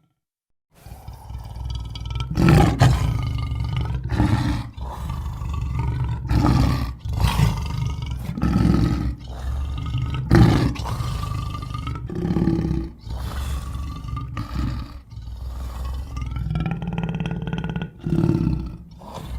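Video-game Tyrannosaurus rex sound effects: a string of loud roars and growls, one after another with short breaks between them, beginning about a second in.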